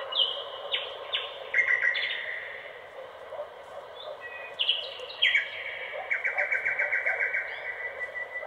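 Birds chirping: a string of sharp high chirps, then a fast trill of about eight notes a second, starting about six seconds in.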